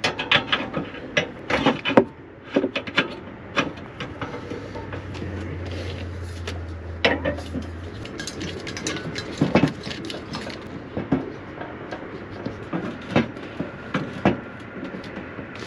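Irregular knocks, clicks and clatter of pots, utensils and other gear being handled, with a low steady hum for a few seconds in the middle.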